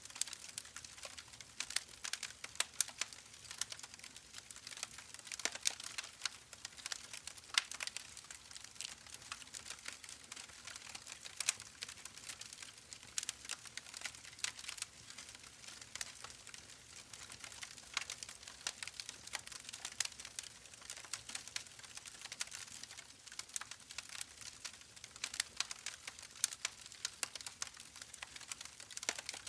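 Campfire crackling: a steady stream of irregular sharp snaps and pops over a soft, even hiss.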